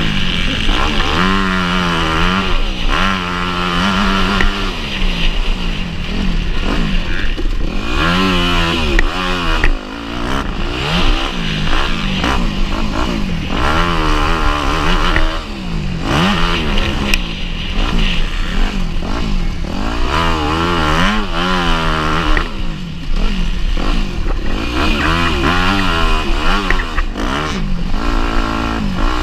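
Motocross bike engine ridden hard, its pitch climbing and dropping over and over as the throttle opens and closes through the gears.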